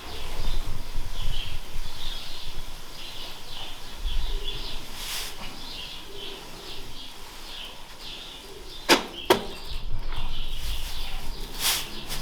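Small birds chirping continuously over a low rumble, with two sharp clicks about nine seconds in and a couple of brief swishes.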